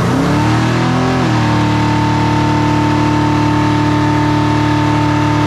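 Car engine revving up over about the first second, then held at a steady high rpm through the rest, as in a burnout with the tyres spinning.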